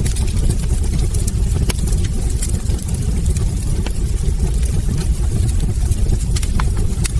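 Wood fire burning in a fireplace: frequent small, sharp crackles and pops over a steady low rumble of the flames.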